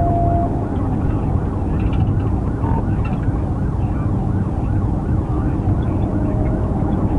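Police patrol car driving fast in a pursuit: steady engine and road noise heard from inside the cabin, with a siren cycling faintly underneath.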